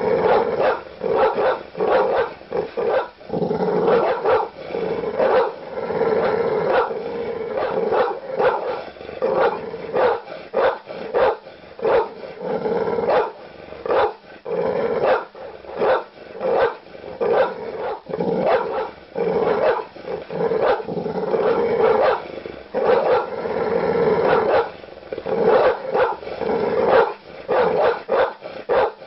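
Large dog barking aggressively: deep barks in rapid, unbroken succession.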